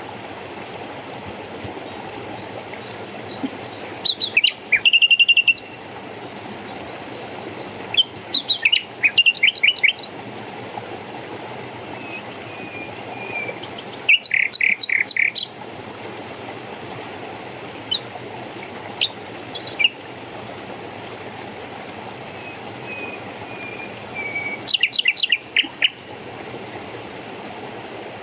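Songbird singing in short bouts of rapid chirps and trills, about five phrases several seconds apart, over a steady rush of running water.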